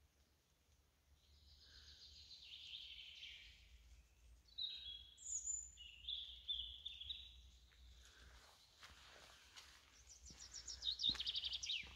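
Songbirds singing: a series of high chirps and trilled phrases, with a fast descending trill near the end. A few soft thumps come in the last few seconds.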